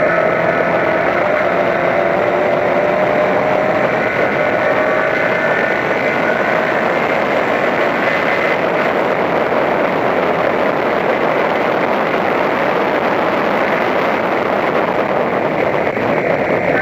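Toyota Corolla Levin race car's engine running hard at high revs under racing, its note drifting slowly in pitch, over a steady rush of wind and road noise.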